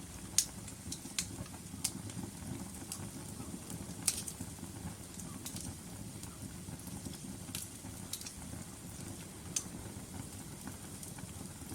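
Wood fire burning in a fireplace: sharp, irregular pops and snaps from the logs over a steady low rumble of the flames. The loudest pops come about half a second in and about four seconds in.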